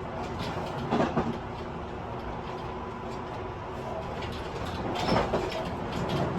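Interior running noise of a Tobu 50090 series electric train at speed, heard inside a motor car: a steady rumble of wheels and traction motors with a faint steady hum. Clattering knocks come about a second in and again about five seconds in, and the noise grows louder toward the end.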